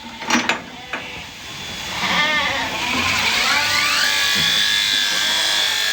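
Electric sheep-shearing handpiece starting up: its motor whine rises in pitch from about three seconds in, then runs steady. A couple of sharp clicks come near the start.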